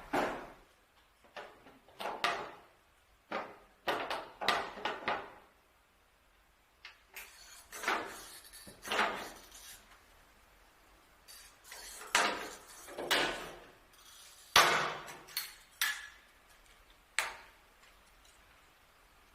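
Irregular knocks and clatter of hard objects being handled and set down, a dozen or so separate hits coming in clusters, with a short scraping hiss about seven seconds in.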